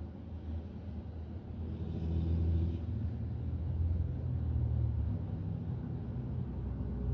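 Motorcycle engine running steadily at road speed, a low hum that grows louder about two seconds in.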